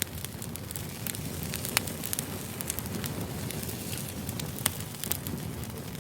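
Firewood burning: a steady low rumble of flames with scattered sharp crackles and pops, two of them louder, about two and five seconds in.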